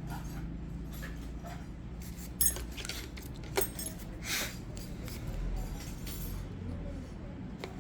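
Metal pedicure tools clicking and clinking a few times, with a short scrape, over a steady low hum.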